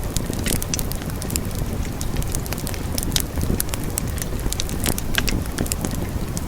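Wood fire burning steadily, with a continuous low rumble and frequent sharp crackles and pops from the burning logs.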